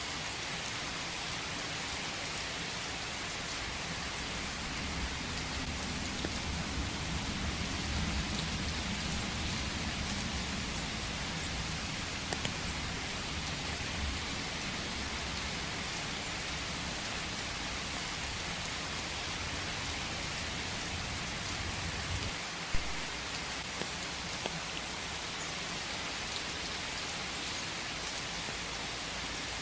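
Steady rain falling in a forest, an even hiss of many drops. A low rumble swells and fades about a quarter of the way through, and a single sharp tap stands out about three quarters of the way through.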